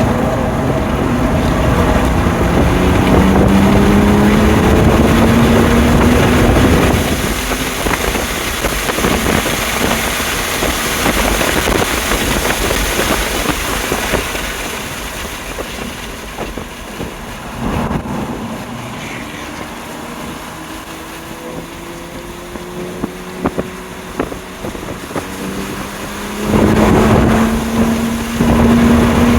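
2020 BMW M2 Competition's twin-turbo straight-six pulling hard under full throttle, its pitch rising, over steady wind and tyre noise. It backs off and runs quieter through the middle, then goes hard on the throttle again near the end.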